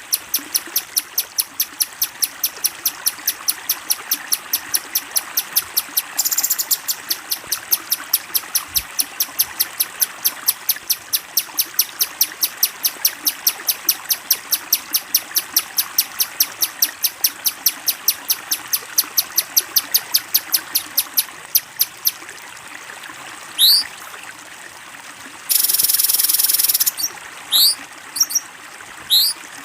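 Bird calls from a recorded training track: a bird repeats a short, high chip about three times a second, and about two-thirds of the way through it stops and gives way to separate rising whistled notes and a harsh buzzing call, over a faint steady trickle of running water.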